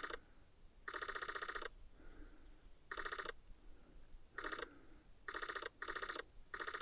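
Camera shutter firing in continuous burst mode: about six short bursts of rapid, evenly spaced clicks, each lasting under a second, with brief gaps between them.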